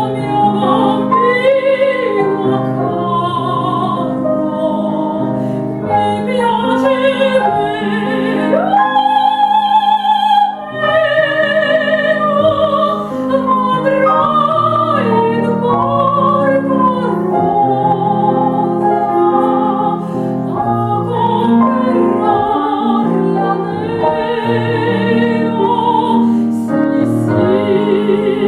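A woman singing a classical vocal piece in operatic style with wide vibrato, accompanied by grand piano.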